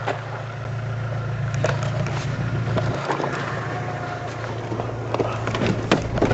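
Vauxhall Frontera engine idling steadily, with a few scattered light clicks over it.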